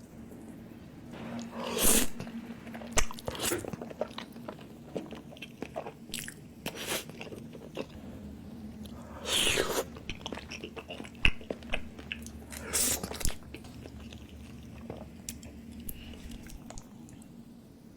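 Close-miked eating: chewing and biting with many small clicks and smacks, and three louder bursts about 2, 9 and 13 seconds in.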